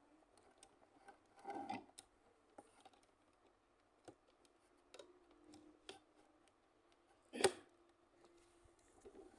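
Faint scattered clicks and small knocks, the loudest about seven seconds in, over a faint steady hum.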